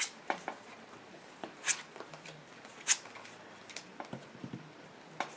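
Trading cards being handled and laid down on a play mat: a scattering of short slides and taps, with two louder card swishes about two and three seconds in.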